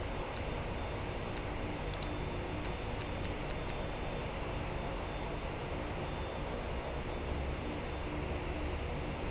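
Steady rumble of airliner jet engines, even in level throughout, with a few faint short ticks in the first few seconds.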